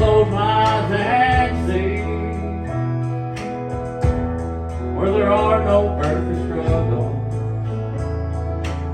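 Live country gospel music: an acoustic guitar and bass accompaniment with a melody line that bends in pitch, playing the introduction to the song.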